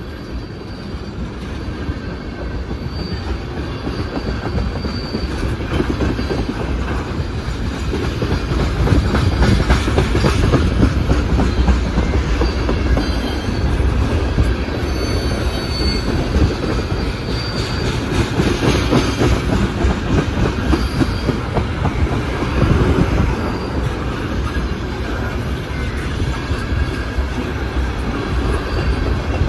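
CSX mixed freight train's cars rolling past at close range, a steady heavy rumble with clickety-clack from the wheels that grows louder over the first several seconds and then holds. Thin high-pitched wheel squeals come and go.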